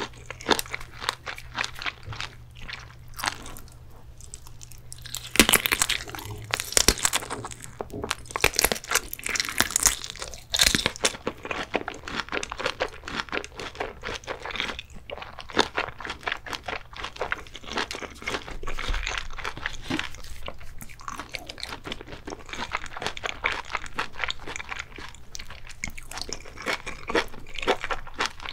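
Close-miked chewing and biting of a fried sausage dipped in cheese sauce. The louder bites and chewing come from about five to eleven seconds in.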